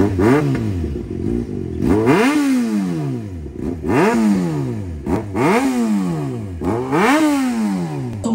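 Motorcycle engine revved in repeated throttle blips, about five times, each rev rising in pitch and falling back to idle every second and a half or so.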